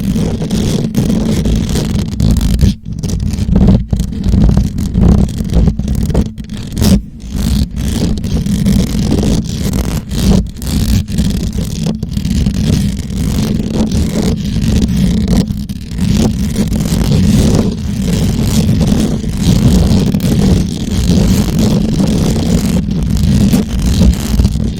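Fingers scratching and rubbing directly on a microphone, a loud, dense, deep scraping broken by a few short gaps.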